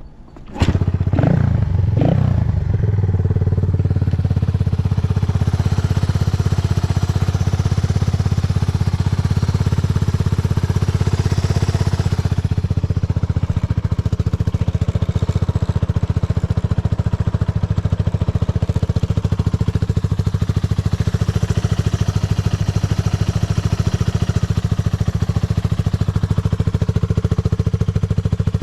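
Yamaha TW200 single-cylinder four-stroke motorcycle engine firing up about half a second in, blipped briefly a couple of times, then settling into a steady idle with no abnormal noises.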